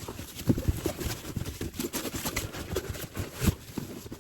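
Irregular knocks, thumps and rustling from handling a collapsible car trunk organizer as its panels and dividers are fitted.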